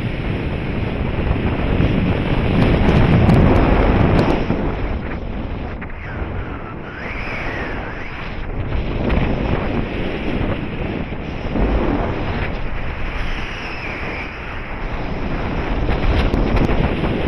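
Wind rushing over the microphone in paraglider flight, swelling and easing in gusts. A faint wavering whistle rises and falls about seven seconds in and again later.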